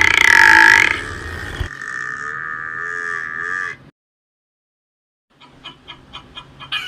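Buffalo lowing: one long bellowing call that fades out about four seconds in. After a second or so of silence, a hen starts clucking near the end.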